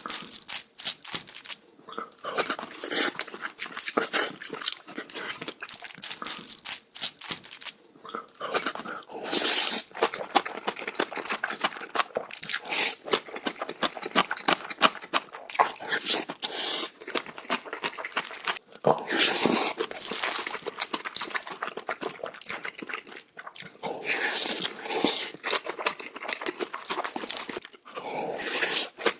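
Close-miked mouth sounds of a person eating bibimbap in big bites: chewing with a rapid, irregular stream of wet clicks and smacks that comes in bursts.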